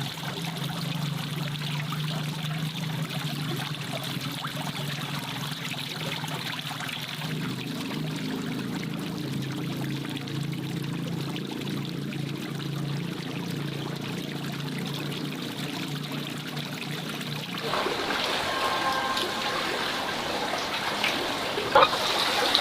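Water trickling and pouring steadily. About eighteen seconds in it turns brighter and splashier, with a single short sharp knock near the end.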